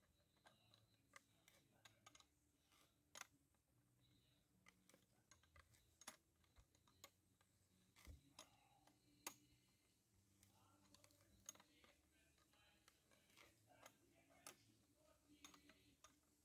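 Near silence broken by faint, irregular clicks and taps.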